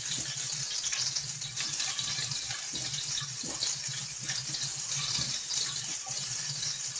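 Chopped garlic frying in hot oil in a pan: a steady sizzle with small crackles, over a low steady hum.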